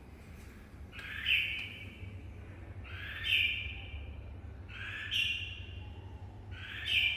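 A bird repeating a short, harsh call about every two seconds, four calls in all, each under a second long.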